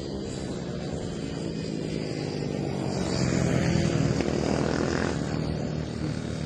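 Small 110cc mini racing motorcycle engine running hard at speed, its pitch shifting as the revs change. It builds to its loudest a few seconds in, then eases off.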